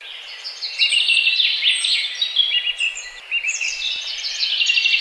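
Songbirds singing together, many overlapping high chirps and quick trills, over a faint steady hiss.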